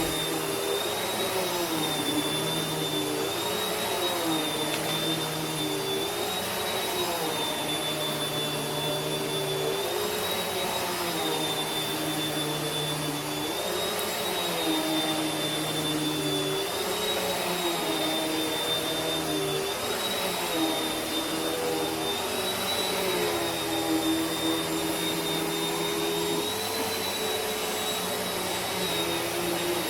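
Vacuum cleaner running continuously, a steady motor whine and airflow hiss whose pitch dips slightly every few seconds, as when the cleaner is pushed back and forth.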